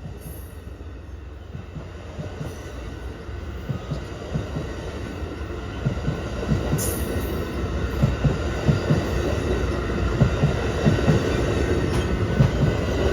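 Amtrak passenger train, led by a GE P42DC diesel locomotive, approaching and passing close by. A low rumble grows steadily louder as the wheels clack over the rail joints, with the knocks coming thicker and louder from about four seconds in.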